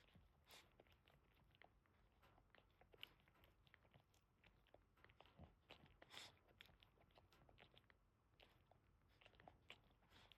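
Boston Terrier mother dog licking her newborn puppy: faint, irregular wet licks and smacks.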